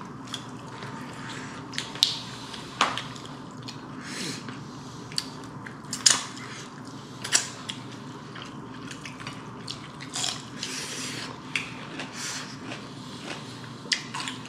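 Chewing and mouth sounds of someone eating chicken biryani, with scattered wet clicks and brief crunches.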